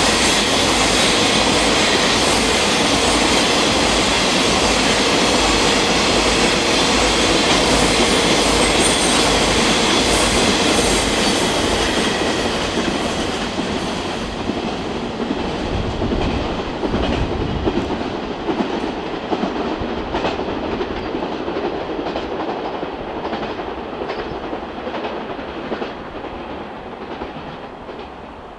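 Coal train of hopper wagons passing at speed, wheels clacking over the rail joints. From about halfway through the rumble fades steadily as the train moves away, leaving scattered distant clicks.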